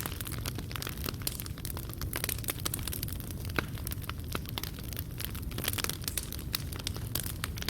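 Fireplace fire burning, with many irregular crackles and pops over a steady low rumble of the flames.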